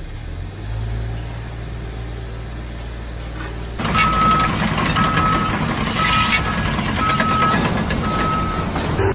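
A vehicle engine runs with a low, steady rumble. About four seconds in, louder machine noise starts, and a reversing alarm beeps five times, about once a second.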